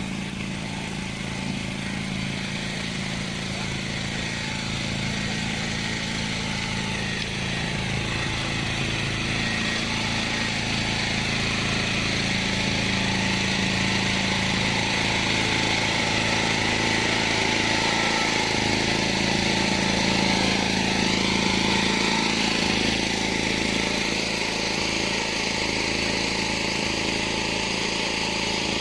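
A motor running steadily, a low hum under a broad hiss.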